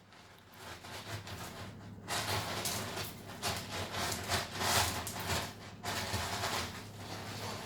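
Irregular scratching and rustling noise in bursts, loudest between about two and six seconds in.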